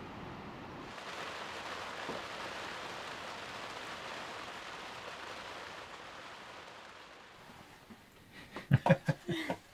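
Rain falling steadily on a sailboat, heard from inside the cabin. Near the end it gives way to sharp clinks of cutlery on plates.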